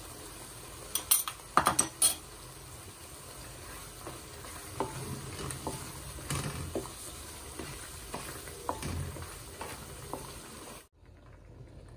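Chicken liver masala sizzling in a metal wok as a wooden spoon stirs it, with sharp clacks of the spoon against the pan, loudest about one to two seconds in and fainter ones later. The sound cuts off suddenly near the end.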